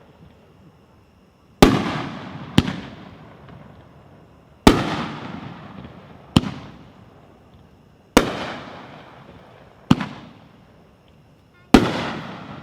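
Consumer firework cake (Cousin Eddie, 9 shots) firing: seven sharp bangs, each echoing away. They come in pairs about a second or so apart, typical of a shell's launch followed by its burst overhead, with a new pair about every three and a half seconds.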